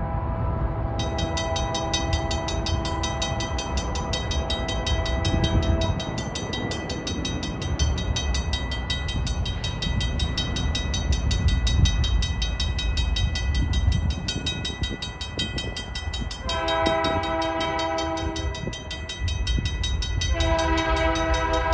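Union Pacific locomotive air horn sounding a crossing signal: a long blast, a shorter one about sixteen seconds in, and another long one starting near the end, over the steady rumble of the passing train. A crossing bell rings steadily from about a second in.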